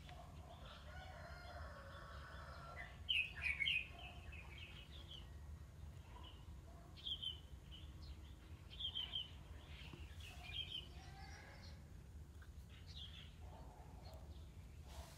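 Birds chirping in short bursts of calls, several times, the loudest about three seconds in, over a low steady hum.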